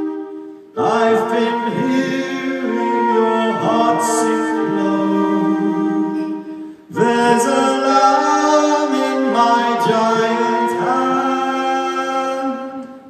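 Live music with long held, layered chords, struck fresh about a second in and again about seven seconds in, then dying away at the close of the song.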